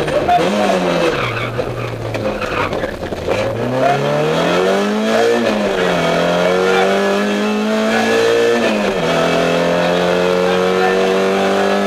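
Rally car engine heard from inside the cabin: it revs up and drops back to low revs about a second in, then pulls hard through the gears, rising in pitch with upshifts about five and a half and nine seconds in.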